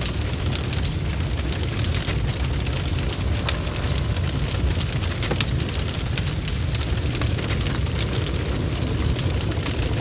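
Wood fire crackling: many irregular sharp snaps and pops over a steady low rumble of burning.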